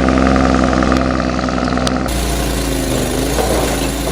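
Heavy truck's diesel engine running steadily. About halfway through, the sound cuts abruptly to a different steady engine drone, which dips slightly in pitch near the end.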